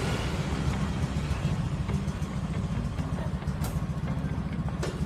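Motorcycle engine running with a steady, pulsing low rumble, with two short clicks in the second half.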